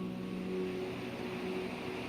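Steady low background hum with a faint even hiss: room tone from a running air-conditioning or fan unit.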